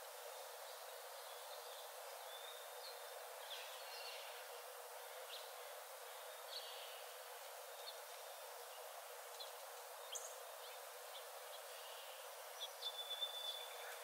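Small songbirds calling: scattered short high chirps and thin whistles, with a quicker run of louder chirps and a held whistle near the end, over a soft steady hiss.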